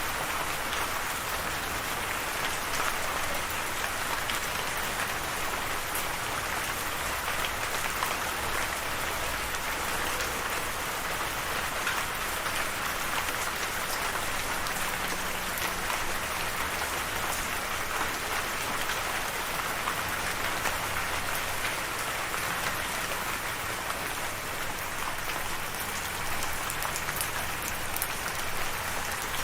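Steady rainfall, a dense even hiss of rain with many small drop ticks.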